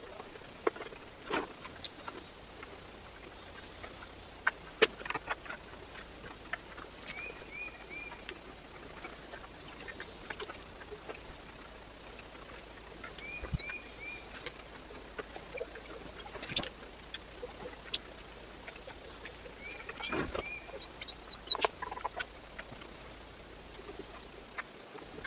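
Birds at a feeder: scattered sharp taps and clicks, with a short call of three quick high notes heard three times.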